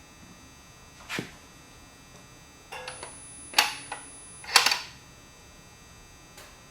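Four sharp mechanical clicks and clunks, a second or so apart, the last the loudest, typical of hand work on car parts.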